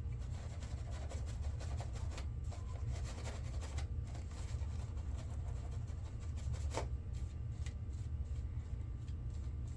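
Shaving brush rubbing and swirling shaving-soap lather, a run of soft scratchy strokes, with one sharp click about seven seconds in.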